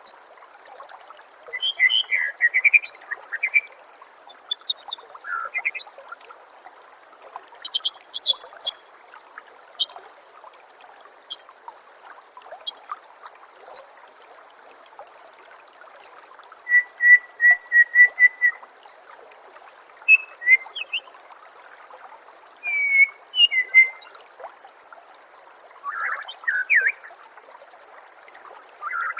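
White-rumped shama (murai batu) singing in varied, separate phrases: whistled notes that glide up and down, a quick run of about eight repeated notes, and sharp high ticks. A steady trickle of running water goes on underneath.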